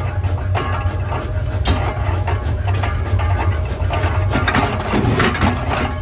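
Forging-shop machinery running with a steady low hum, over irregular scraping and knocking.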